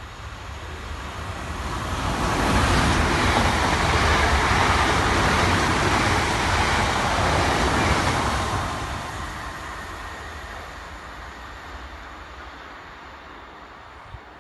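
Two coupled Class 450 Desiro electric multiple units passing through the station at speed without stopping. The noise builds over about two seconds, stays loud for about six, then fades away.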